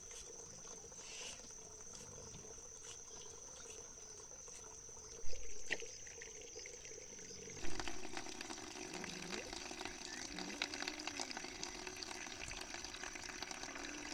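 Water sloshing and trickling, growing busier after a knock about eight seconds in, with another knock a little earlier and a steady high-pitched whine underneath.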